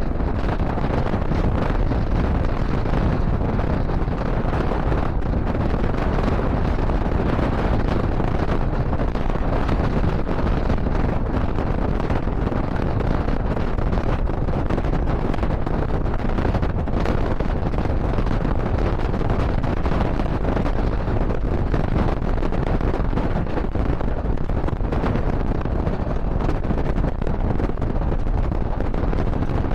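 Moving passenger train's steady running rumble, with wind buffeting the microphone.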